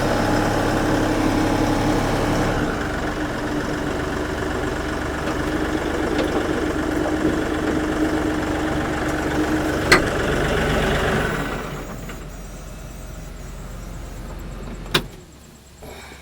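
Tractor engine running steadily, with a sharp click about ten seconds in. The engine then grows quieter, and its low hum ends with a sharp knock about fifteen seconds in.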